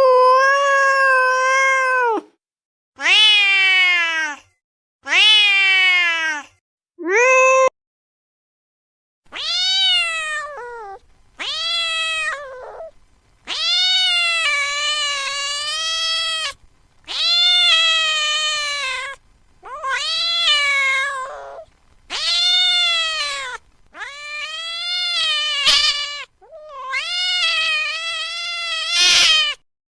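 A cat meowing over and over in long, drawn-out cries, about a dozen of them, each one to two seconds long and rising then falling in pitch, with short pauses between.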